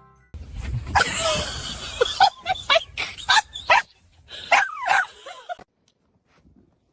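A dog barking and yipping in a run of short, sharp calls that cut off abruptly about five and a half seconds in.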